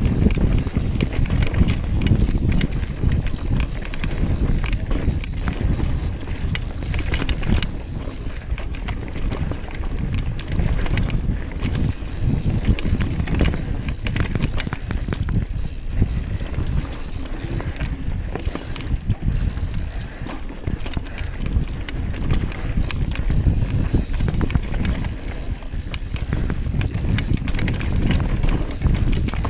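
Mountain bike riding a dirt trail: continuous tyre rumble with constant clicking and rattling of the bike over rough ground, and wind buffeting the microphone.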